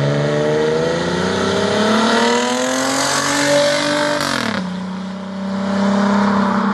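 Straight-piped exhaust of a 1998 Chrysler Concorde's V6, muffler and resonator deleted, accelerating. The note rises steadily for about four seconds, falls quickly to a lower steady pitch, then climbs slightly again near the end.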